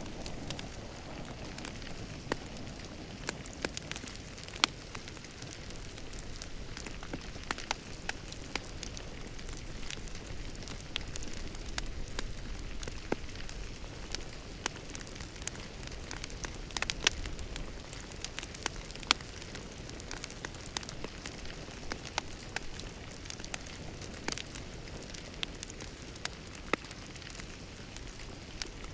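Wood fire crackling in a fireplace: a steady soft hiss with irregular sharp pops and snaps, a few of them louder.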